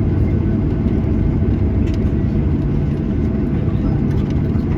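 Steady low rumble inside the cabin of a Boeing 737-800, with a few faint clicks about two seconds in and again near the end.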